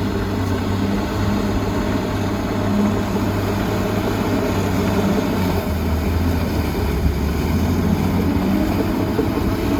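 Heavy diesel engine of earthmoving machinery running steadily, its pitch dipping for a few seconds past the middle and then climbing back.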